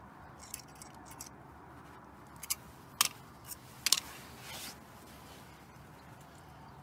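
Small metal parts and hand tools clinking while a steel brake-caliper anti-rattle bracket is bent and fitted: a few sharp metallic clicks, the loudest two about three and four seconds in, then a short scrape.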